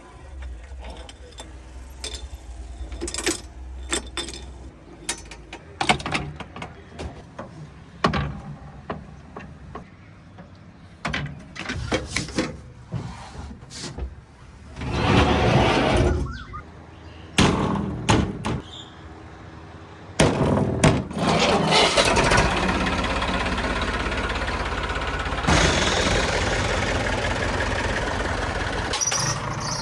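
Scattered knocks and clanks, then about two-thirds of the way through a diesel engine starts up and keeps running with a steady, rhythmic chug.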